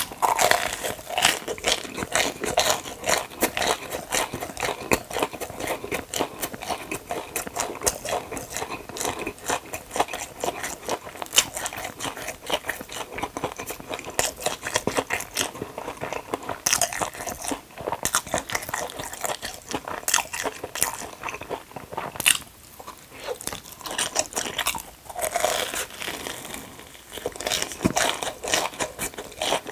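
Close-miked crunching bites and chewing of a crispy batter-fried hot dog, one crackly crunch after another with mouth sounds, easing off briefly a little past the middle.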